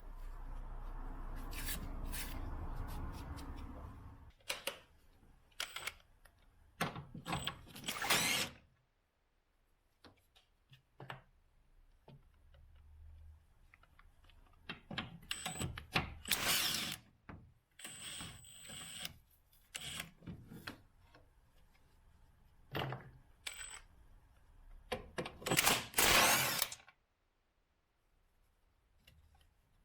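Mechanic's tool work: a power tool run in three short bursts of about a second each, between sharp metallic clicks and clinks of tools and parts. A low hum fills the first few seconds.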